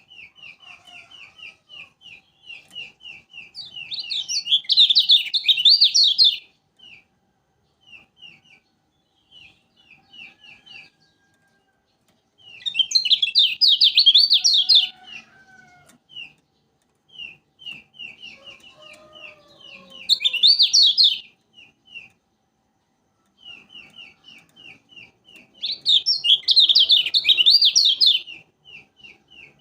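Kecial kuning (a white-eye songbird) singing: a fast, steady run of short chip notes, broken four times by loud, rapid jumbled warbling phrases of a few seconds each.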